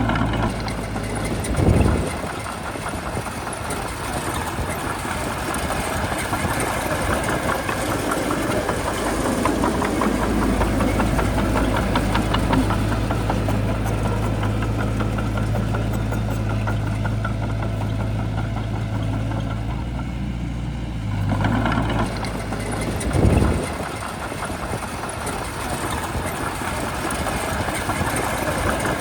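Shantui bulldozer's diesel engine running steadily while working. It grows heavier through the middle stretch, with two brief low surges, one about two seconds in and one about two-thirds of the way through.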